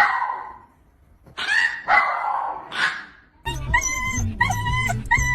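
A dog barking, three short loud barks in the first three seconds, followed about three and a half seconds in by a different continuous sound with a steady pitch and a low hum.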